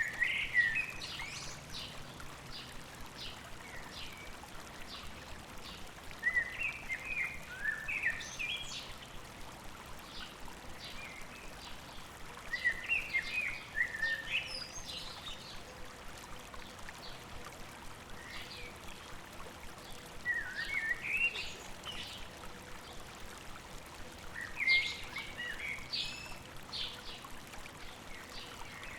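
A songbird singing short phrases of quick chirps and slurred notes, repeated about every six seconds, over a steady babble of flowing stream water.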